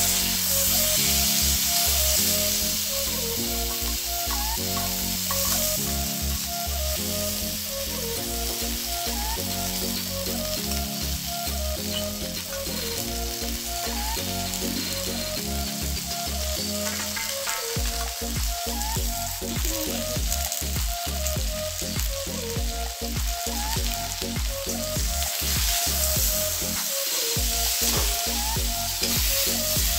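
Drumstick (moringa) pod pieces and spice paste sizzling in hot oil in a steel kadhai, with a steady hiss. A steel spatula stirs and scrapes against the pan, and the scraping clicks grow thicker in the second half.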